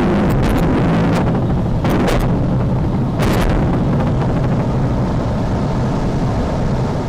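Loud wind noise buffeting the microphone, a steady low rumble with a couple of brief crackles about two and three seconds in, as air rushes past during a glider's gravity launch down a slope.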